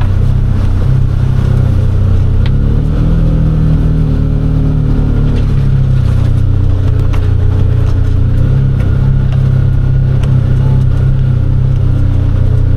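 Polaris side-by-side UTV engine running steadily while driving through deep snow, its pitch rising briefly about three seconds in, with a few light knocks.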